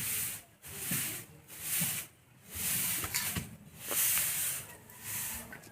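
Repeated scraping strokes, about one a second, each a short burst of hiss.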